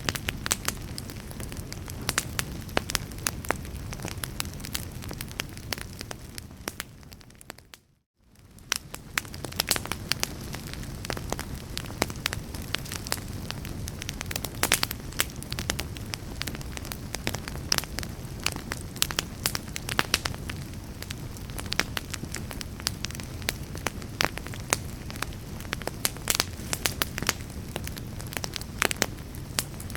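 Wood fire in a fireplace crackling, with frequent irregular snaps and pops over a low, steady rumble of burning. About eight seconds in, the sound fades away almost to silence for a moment, then fades back in.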